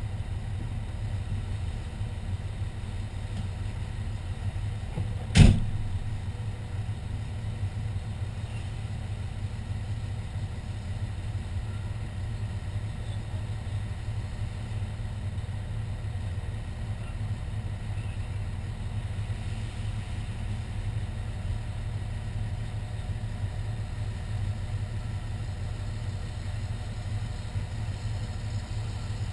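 Fire engine's engine running with a steady low rumble, and a single sharp knock about five seconds in.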